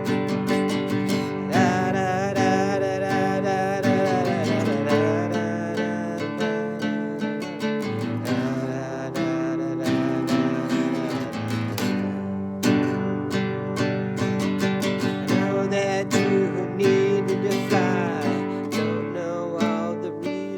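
Acoustic guitar strumming and picking chords in an instrumental passage of a song, with a wavering melody line over the chords at times.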